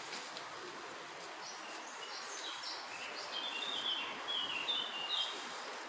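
A small bird singing a quick run of high chirps over a steady outdoor background hiss, the song loudest about four to five seconds in.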